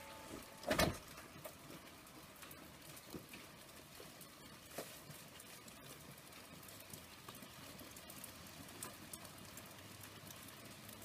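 A door bangs shut about a second in, then a light steady patter of rain with scattered small ticks.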